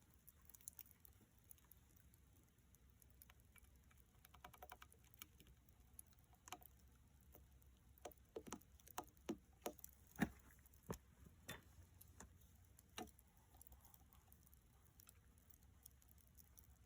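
Faint scattered clicks and light taps over near silence, more frequent in the middle, with one sharper click about ten seconds in.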